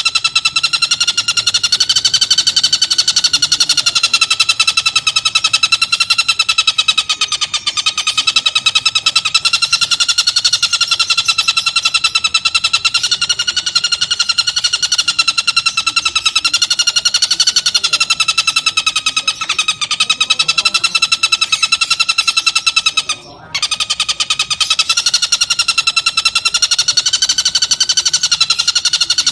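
Tengkek buto kingfisher giving a harsh, rapid rattling trill, held almost without a break and wavering slightly in pitch, cut off briefly about 23 seconds in before it resumes.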